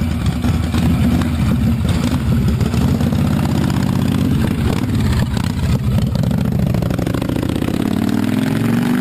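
Motorcycle engine running steadily at a fast idle, its revs rising near the end.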